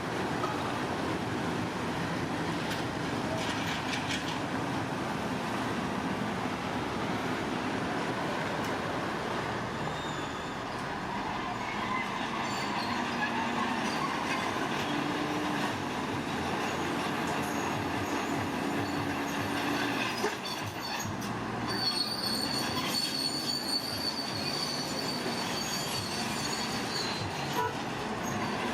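Heavy earthmoving machinery running steadily. A high, thin squeal joins in for about five seconds near the end.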